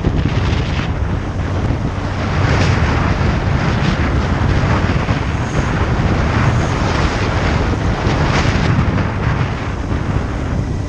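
Motorcycle running at road speed, its low engine rumble mixed with heavy wind buffeting on the microphone that swells and eases several times.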